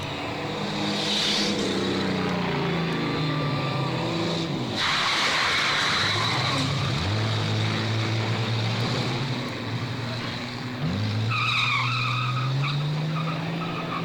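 Stock car engines revving and accelerating hard, the engine pitch climbing sharply twice, with tires skidding and squealing on the track.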